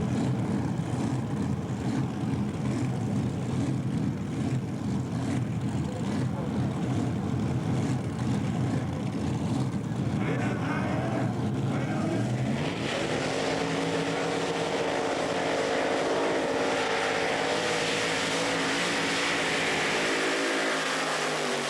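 Pulling-tractor engine running loud and rough under heavy load. About 12 seconds in, it changes to a steadier, higher-revving sound with a clear pitch.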